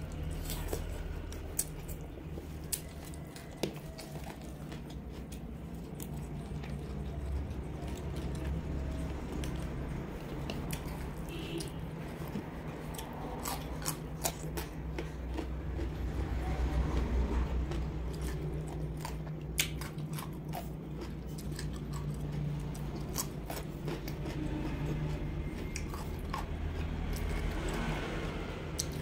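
Chewing and biting sounds of a person eating roast duck and fresh herb leaves, with scattered sharp mouth clicks, over a steady low hum.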